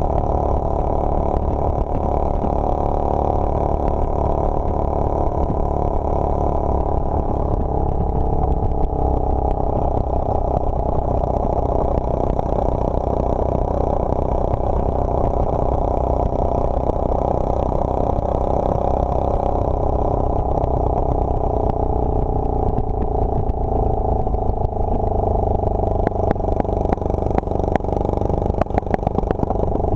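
Motorcycle underway, heard from on the bike: a steady, loud rumble of engine and wind. A few short clicks come near the end.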